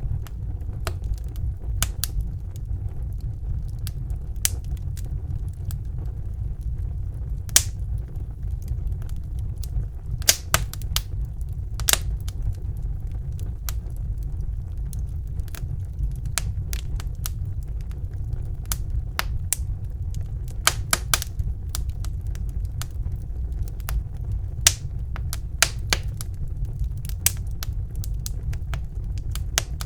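Wood fire burning in a fireplace: a steady low rumble of flames with irregular sharp crackles and pops, coming in small clusters now and then.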